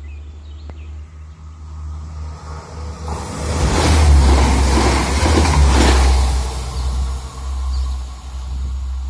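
Train passing close by: a low steady rumble that swells to a loud peak about four to six seconds in, then eases off.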